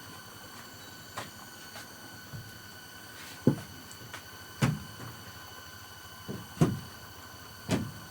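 Irregular knocks and thuds, about five in all, spaced one to two seconds apart. Beneath them is a faint steady high-pitched whine of several even tones.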